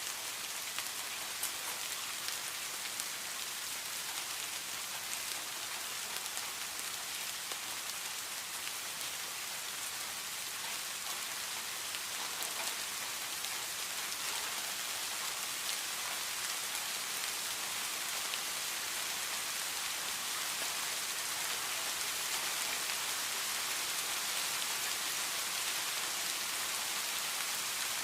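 Steady rain falling, a dense even hiss of drops on a surface with scattered individual drop ticks.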